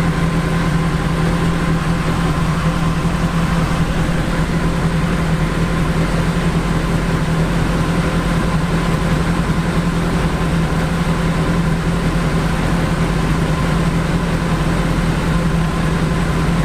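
BAC Mono's engine idling steadily at a standstill, an even low hum that does not rise or fall.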